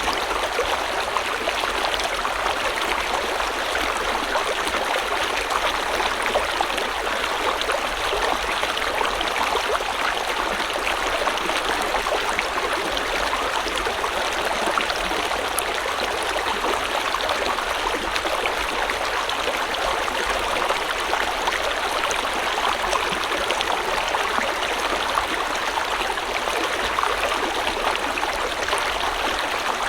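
A river or stream flowing steadily over rocks, a continuous rushing and burbling of water that doesn't change.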